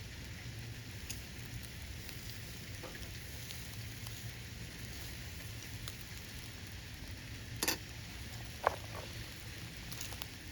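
Food sizzling over a wood campfire: a steady hiss broken by scattered crackling pops, with two sharper pops about three-quarters of the way through.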